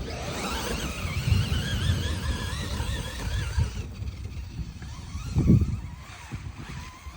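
Radio-controlled truck's motor and drivetrain whining, the pitch wavering up and down with the throttle for the first few seconds, over a low rumble. A thump about five seconds in is the loudest sound.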